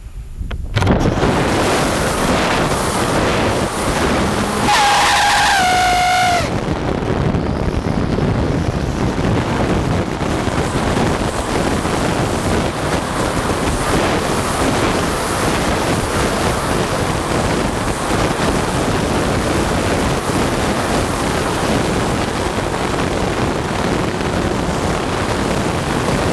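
Electric RC speedboat running fast, with a loud steady rush of water and wind on the microphone. About five seconds in, the propeller gives a high squeal for a second and a half, its pitch sagging slightly. The squeal comes at part throttle and the owner does not know its cause, having ruled out motor timing.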